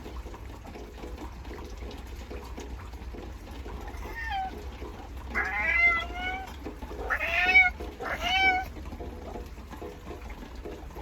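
A domestic cat meowing four times, the first call fainter than the three that follow.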